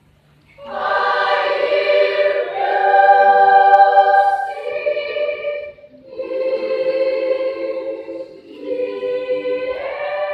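Children's choir singing held chords in several voices. It starts about half a second in, with short breaks for breath around six and eight and a half seconds.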